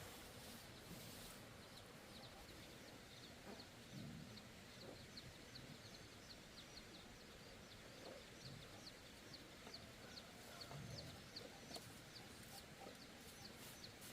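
Faint high peeping of a small bird, likely chicks, in a long run of short falling chirps about three a second, with a few soft low thumps.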